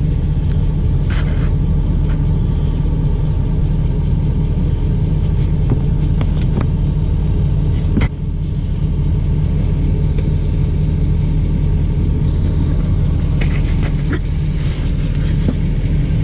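Steady low idle of a diesel vehicle's engine running through an exhaust-filter regeneration, with a few light clicks and knocks over it, the sharpest about eight seconds in.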